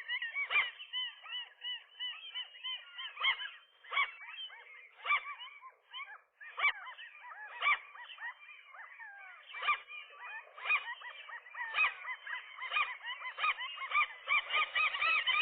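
Several gulls calling over one another in a dense, continuous chorus of short, arched, honking calls, several a second, growing denser near the end. These are agitated calls of gulls in a territorial fight over a nest.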